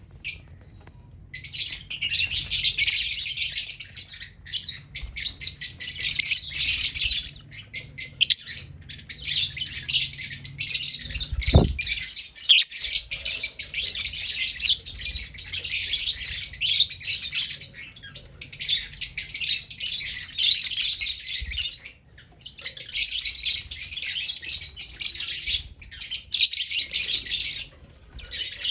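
Lovebirds chattering in rapid, shrill chirps, in bouts of a few seconds broken by short pauses. A single low thud comes about halfway through.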